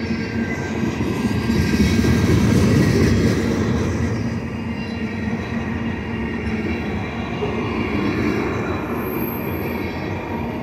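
Loaded ethanol tank cars of a freight train rolling past: a steady rumble of steel wheels on rail, loudest a couple of seconds in, with a faint, steady, high-pitched wheel squeal above it.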